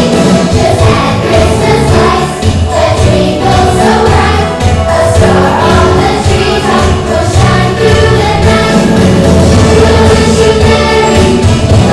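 Choir singing a Christmas song with instrumental accompaniment.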